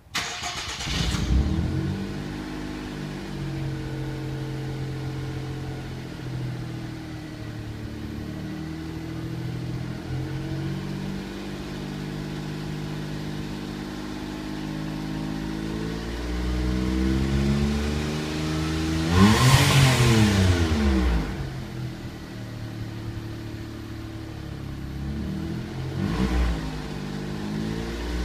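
Mitsubishi eK Wagon H81W's 660 cc three-cylinder engine starting up and settling into idle, then revved with no load: a gradual rise to one high rev about two-thirds through that falls back to idle, and a short blip near the end.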